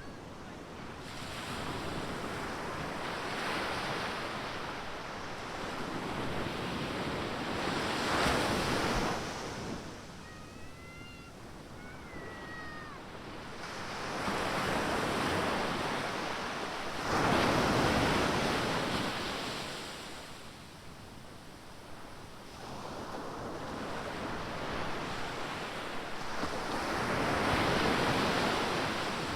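Atlantic Ocean surf: waves breaking and washing up the beach, the noise swelling and fading in slow surges, loudest three times, about eight to ten seconds apart.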